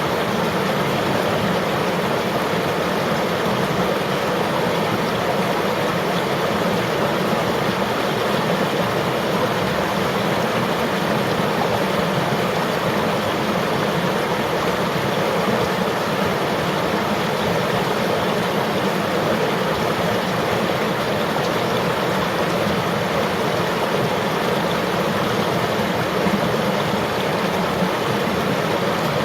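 River water flowing and rushing over rocks, a steady, unbroken sound.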